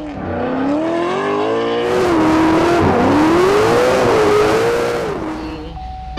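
Car engine revving, its pitch climbing, dipping once and climbing again, with a loud rush of noise through the middle that fades out near the end.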